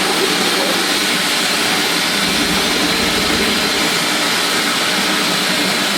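Steam locomotive's water injector running with a steady, loud rushing hiss as it forces water into the boiler.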